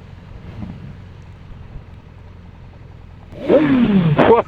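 Low, steady running noise of a motorcycle on the move. About three and a half seconds in, a much louder sound comes in and slides sharply down in pitch.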